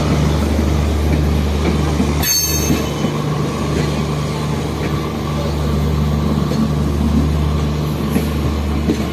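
Indian Railways express passenger coaches rolling past, a steady rumble of wheels on the rails.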